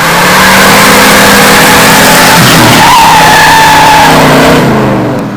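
Burnout in a 1966 Ford F100 pickup with a 428 Police Interceptor V8: the engine runs hard at high revs while the tyres squeal as they spin. The sound eases off near the end.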